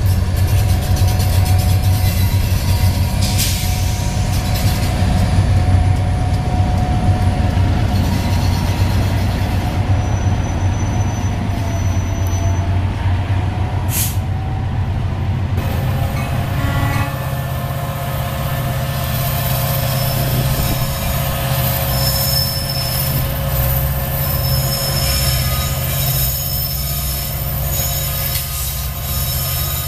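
A diesel-hauled train passing close by: a steady heavy rumble from the locomotives, then the rail cars rolling by with high-pitched wheel squeal through the second half.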